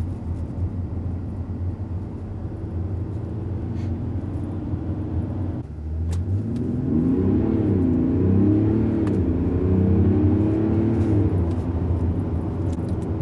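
Mercedes-Benz GLS 400d's straight-six diesel engine in sport mode, running steadily, then after a brief dip a little past halfway it revs up under hard acceleration. The pitch climbs and drops back several times as the automatic gearbox shifts up.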